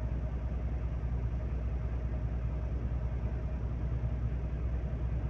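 Heavy diesel engine idling steadily with a low, even drone.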